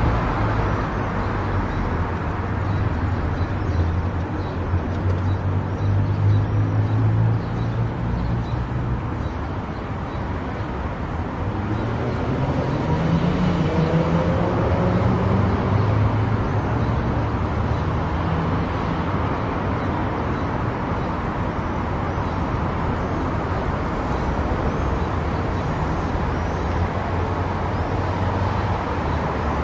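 Car driving at highway speed: steady tyre and road noise with a low engine hum, which rises in pitch for a few seconds about halfway through.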